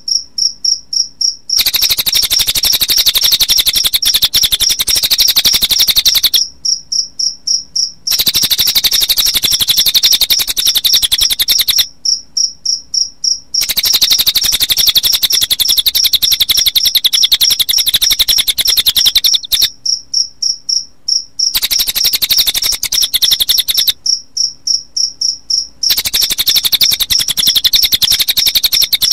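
Looped recording of cililin bird song mixed with cricket chirping: a loud, rapid, high-pitched trill. Five times it breaks off for about a second and a half, and in each pause only a few evenly spaced chirps go on.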